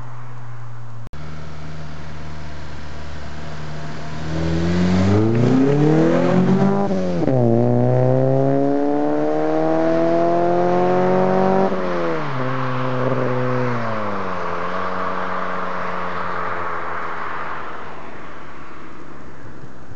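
Honda Accord with an Invidia N1 cat-back exhaust accelerating hard: the exhaust note rises, drops suddenly at an upshift, and rises again. It then falls away as the car passes by, leaving tyre and road noise.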